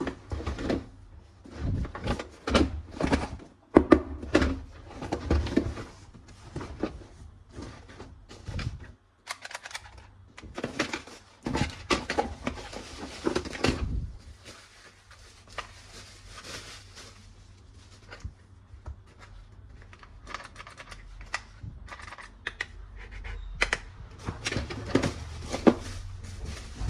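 Irregular clicking, tapping and clattering of hard plastic toy gun parts being handled, coming in dense clusters with short lulls between them.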